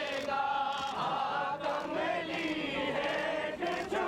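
Crowd of mourners chanting in unison, many voices holding long wavering notes.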